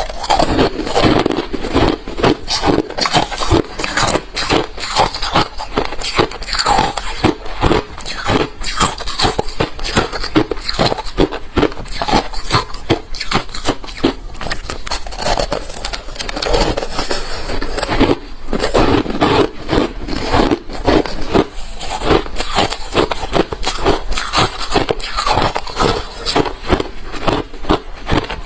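Refrozen crushed ice being chewed close to the microphone: a continuous run of hard, crisp crunches, many per second, in bouts of chewing.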